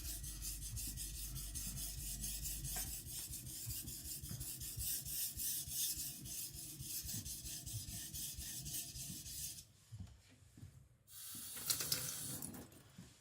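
Kiridashi blade stroked rapidly back and forth on a whetstone, a steady rhythmic scraping while a convex secondary bevel is being ground. The strokes stop about ten seconds in, and a brief burst of scraping follows near the end.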